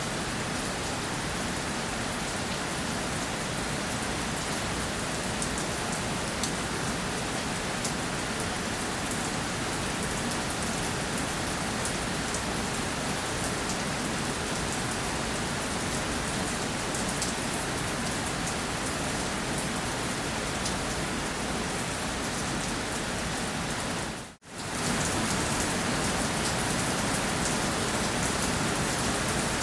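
Steady rain falling and pattering on a surface, an even dense hiss with fine drop crackle. About three-quarters of the way through it fades out for a split second and comes straight back.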